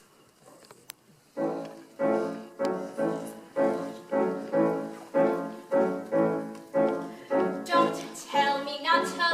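Piano playing the song's introduction: the same chord struck over and over, about two a second, each one dying away before the next. About a second and a half before the end, a female voice starts singing over the piano.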